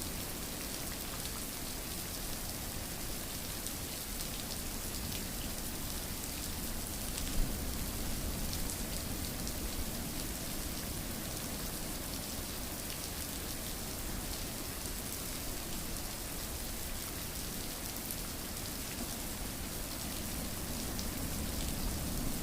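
Steady rain falling: an even hiss with a fine patter of drops, and one sharper single drop or tick about seven seconds in.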